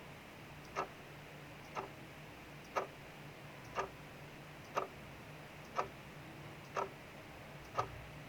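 Clock ticking steadily once a second, with the even hiss of rain in the background.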